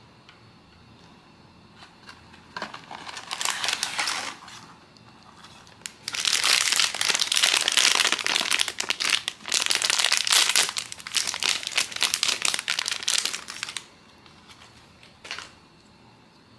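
Blind-box packaging crinkling as it is handled: a short burst about three seconds in, a long stretch of crinkling from about six seconds in, and a brief rustle near the end.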